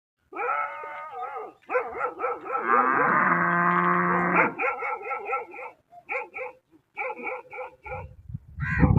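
An animal crying: wavering, whining calls that rise and fall in pitch, then a run of short, quick yelps from about halfway through.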